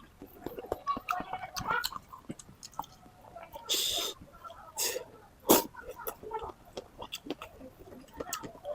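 Close-miked eating sounds: chewing with many short wet smacks and clicks of the mouth, a short breathy burst about four seconds in, and one sharper click about a second and a half later.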